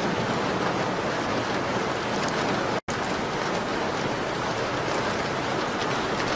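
Steady rain on a window: a dense, even wash of rain noise with faint scattered ticks in it. The sound cuts out completely for an instant about three seconds in, then resumes unchanged.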